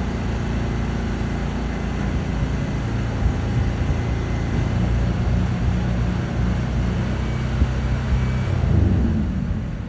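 Truck engine running steadily, getting somewhat louder about eight seconds in and then dropping away at the end.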